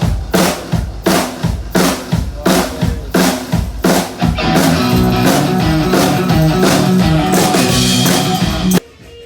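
Live band playing with a steady drum-kit beat of bass drum and snare, about two and a half hits a second. About four seconds in, the band holds one long chord, which cuts off abruptly near the end.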